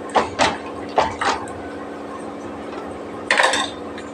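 A spoon scraping and knocking against a cooking pot, about five short strokes, over a steady hum.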